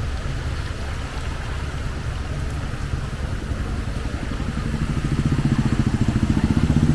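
Steady rain. From about halfway through, a vehicle engine with a low, fast pulse comes in and grows louder as it approaches, becoming the loudest sound near the end.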